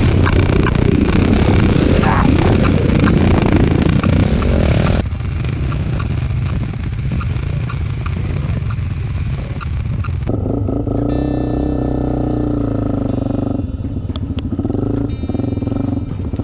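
Enduro motorcycle engines running on a muddy trail ride, loud and rough with wind noise at first. About five seconds in the sound becomes quieter. From about ten seconds a steadier engine note rises and falls slightly in pitch.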